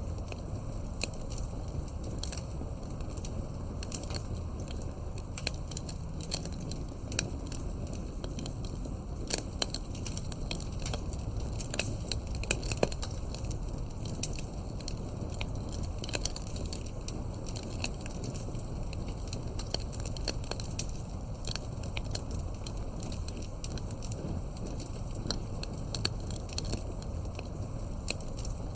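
Wood campfire crackling, with many irregular sharp pops and snaps over a steady low rumble of the burning flames.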